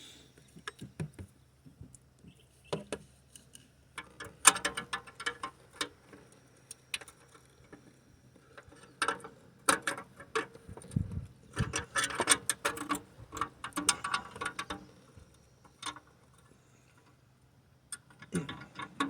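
Hand tool clicking and scraping against metal around the exhaust heat shield and stud, in irregular clusters of sharp clicks, as a stuck part is worked at without coming free.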